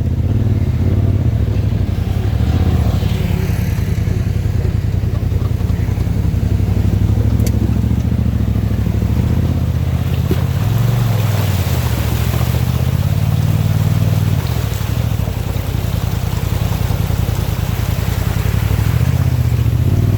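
2018 Polaris RZR XP Turbo S's turbocharged twin-cylinder engine running under way, its pitch rising and falling as the throttle opens and closes.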